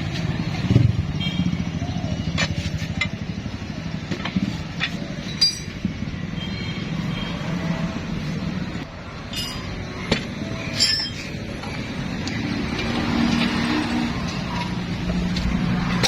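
A steady low engine rumble, with scattered sharp metallic clinks and taps of metal tools, a few ringing out briefly.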